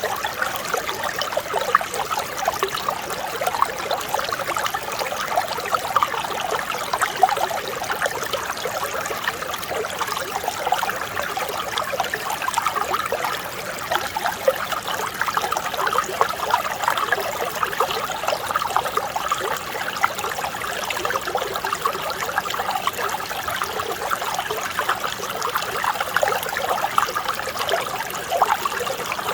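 Mountain stream water flowing steadily, an even babble of running water with fine gurgles and splashes throughout.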